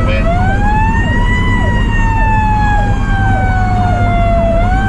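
A Federal Q mechanical siren whines up in pitch, then slowly winds down and is given a brief boost near the end. Alongside it, an electronic siren repeats short falling sweeps about two to three times a second. Underneath is the fire engine's steady engine and road rumble.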